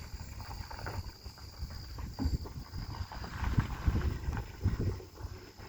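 Low rumble of a slowly driving car heard from inside the cabin, with irregular low thumps from the road and wind. A faint steady high-pitched insect buzz runs underneath.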